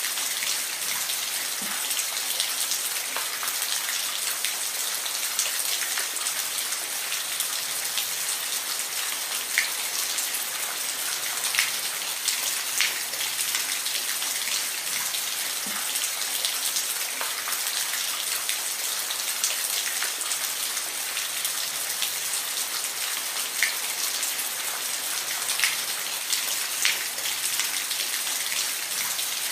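Steady rainfall: a constant hiss of rain with scattered, sharper individual drops striking a surface.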